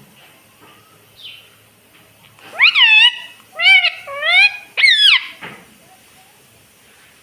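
Rose-ringed (ring-necked) parakeet calling: four loud, pitched calls in quick succession, each bending up and then down in pitch.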